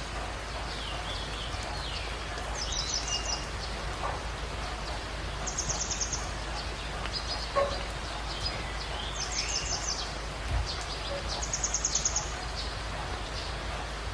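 Birds calling: a short, fast trill-like call repeated about every three seconds, with scattered other chirps, over a steady hiss of ambience.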